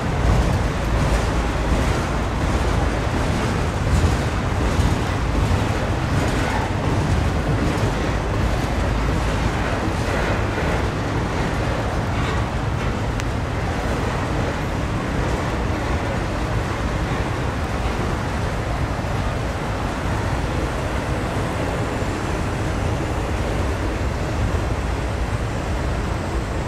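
Norfolk Southern freight train's cars rolling past, with a steady rumble of wheels on rail. A run of regular clicks, wheels over rail joints, comes through over roughly the first half.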